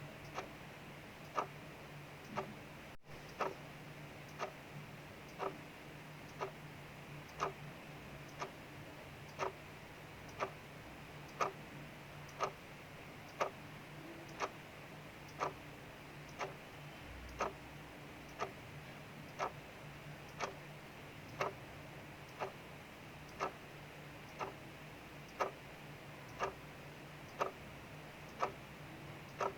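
Clock ticking steadily about once a second, its ticks alternating louder and softer in a tick-tock pattern, over a faint steady hiss of rain.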